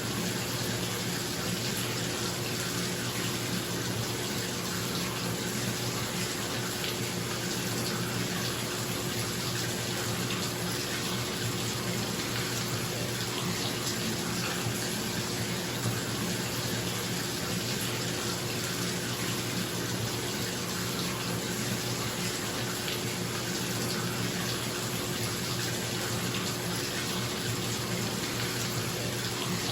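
Bathtub tap running steadily into the tub, an even rushing of water, with a bathroom exhaust fan's steady low hum underneath.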